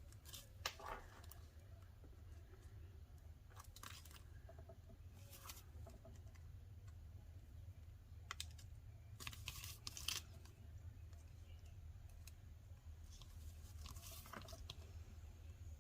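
Very quiet crafting sounds: scattered faint clicks and crinkles of paper and tiny adhesive embellishments being handled over a low steady hum, with a small cluster of clicks about nine to ten seconds in.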